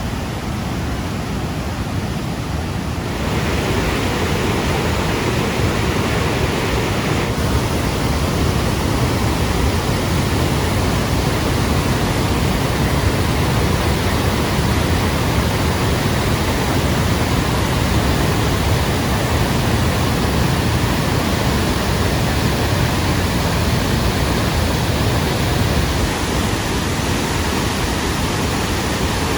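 Chapman Falls running as a flood-swollen raging torrent after days of heavy rain: a loud, steady roar of falling and rushing water, growing a little louder about three seconds in.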